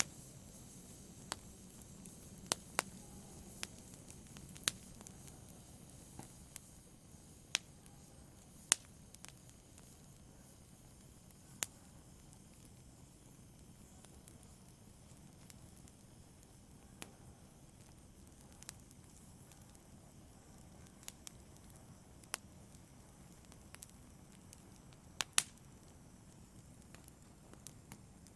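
Fire burning in a fireplace: a faint, steady low rush with sharp crackles and pops at irregular intervals, one every second or few, with a close pair near the end.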